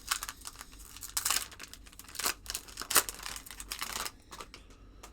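Cardboard trading cards being flipped and slid against one another by hand, a quick run of crisp, papery swishes and flicks, with a few louder ones in the middle.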